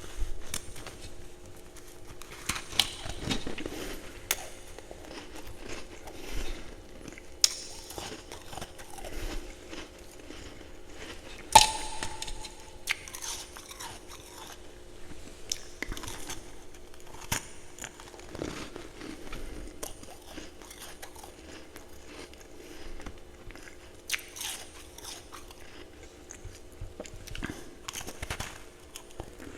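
A person chewing and crunching ice close to the microphone: irregular crisp crunches, with one especially sharp crunch a little before halfway.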